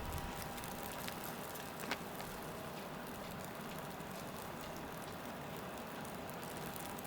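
Street ambience in falling snow: a soft, steady hiss, with one sharp click about two seconds in.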